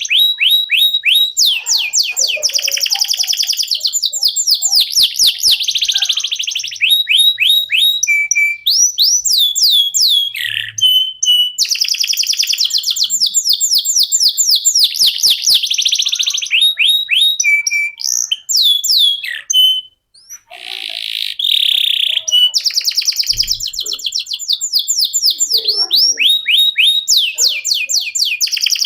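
Canary singing nonstop: long, fast trills and rolls of rapidly repeated sweeping notes, high-pitched, with a brief pause about two-thirds of the way through.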